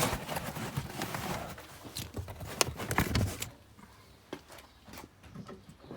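Rustling with a run of knocks and clicks from handling in a small car's boot, busiest in the first three and a half seconds, then a few faint clicks.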